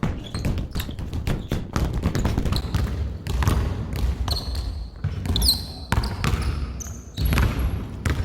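A basketball being dribbled hard on a court, bouncing repeatedly, with a few short high sneaker squeaks about halfway through.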